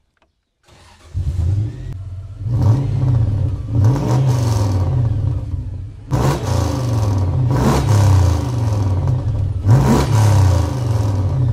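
Lexus 1UZ-FE 4-litre quad-cam V8 in a 1982 Toyota Hilux cranking briefly and catching about a second in, then idling and being revved up several times, heard from behind the truck at the exhaust.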